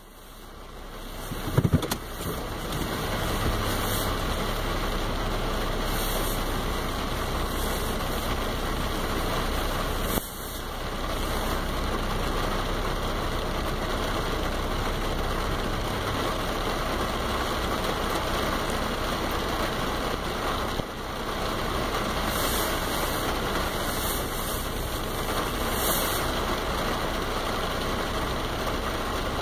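Steady rain, an even rushing hiss with a low rumble underneath, fading in at the start. A brief sharp thump sounds about a second and a half in.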